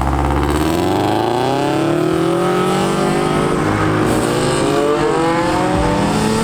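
Car engines revving hard and accelerating away, their pitch climbing in long sweeps, with a second engine overlapping the first from about four seconds in.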